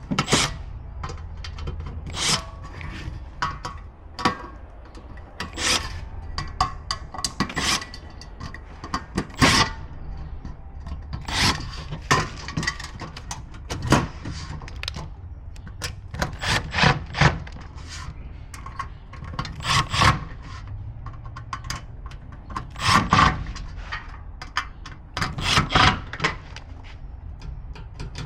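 Irregular knocks, scrapes and rubbing from parts of a stainless gas grill being handled and fitted together during assembly.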